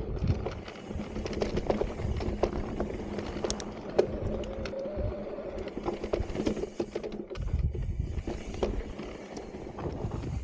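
Electric mountain bike rolling over a loose, rocky dirt trail: tyres crunching over gravel and rocks with a low rumble, and the bike rattling with frequent small clicks and knocks over a faint steady hum.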